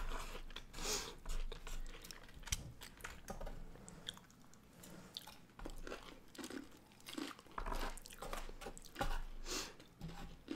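Close-miked chewing of sushi rolls: irregular wet mouth clicks and smacks with crunching.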